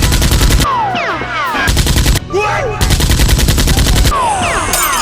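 Automatic gunfire sound effects in three rapid bursts: one at the start, a short one around two seconds in, and a longer one ending about four seconds in. Short falling whistle-like tones sound between and after the bursts.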